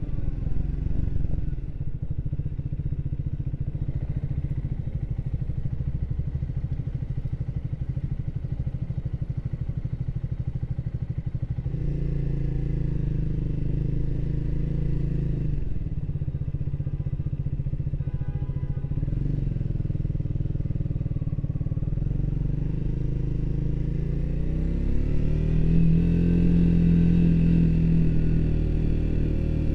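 Triumph Speed 400's single-cylinder engine running under way, with a low, pulsing note for the first dozen seconds. The engine pitch then climbs, dips and climbs again, as the bike accelerates through the gears, and holds higher near the end.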